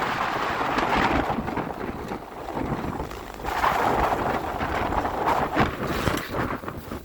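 Wind noise buffeting the microphone during a downhill ski run through powder, rising and falling in swells.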